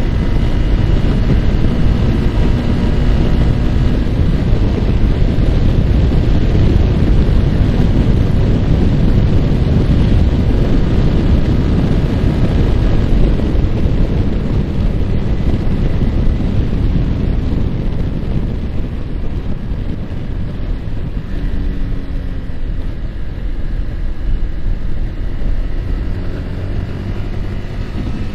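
Yamaha R15's single-cylinder engine running while riding, under heavy wind buffeting on the microphone. The wind eases a little in the second half and the engine note shifts in pitch.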